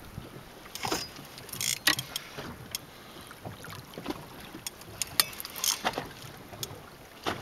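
Irregular light knocks and clicks aboard a small fishing boat, a dozen or so scattered sharp ticks with a few short scraping rushes, over light wind on the microphone.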